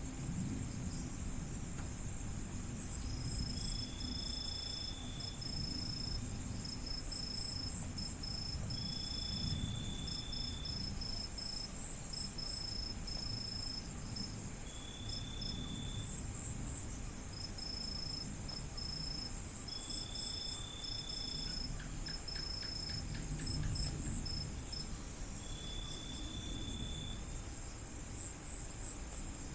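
Crickets chirping at night: one gives a steady high trill broken by short gaps, while another gives a lower trill about a second and a half long roughly every five seconds. A low rumble runs underneath.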